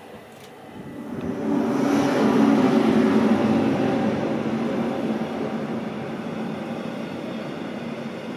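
Rhaetian Railway Ge 4/4 electric locomotive hauling a passenger train along the station track. The sound swells about a second in, is loudest as the locomotive goes by, then settles into the steady running noise of the coaches' wheels on the rails.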